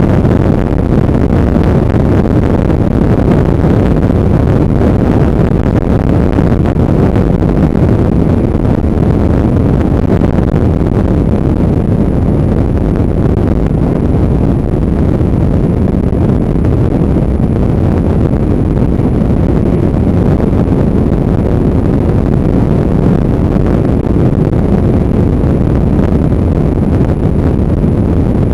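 Motorcycle on the move: loud, steady wind rush on the microphone mixed with the bike's running noise, heaviest in the low end and unchanging throughout.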